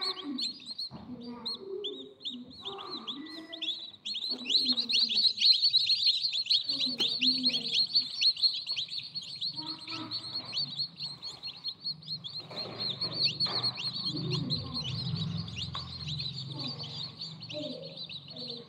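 Newly hatched baby birds cheeping, a dense, continuous chorus of short high chirps, several a second, that grows louder about four seconds in.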